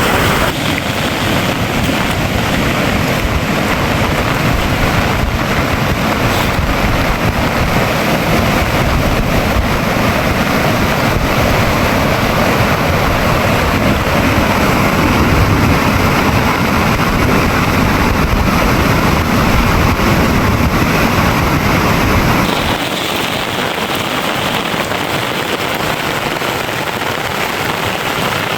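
Heavy monsoon rain pouring steadily, with wind rumbling on the microphone. The low rumble drops away suddenly about three quarters of the way through, leaving a lighter, even hiss of rain.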